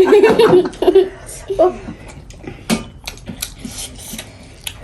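Eating sounds: scattered wet mouth clicks and smacks of chewing, with a few sharp clinks of dishes.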